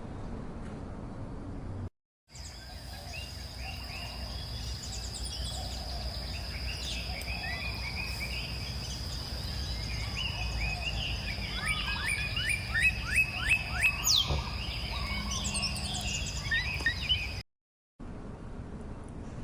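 A chorus of wild songbirds chirping and whistling over a steady high-pitched tone, with one bird giving a rapid run of loud repeated notes about two-thirds of the way through. It is bracketed by a low steady rumble at the start and end, each cut off by a brief silent gap.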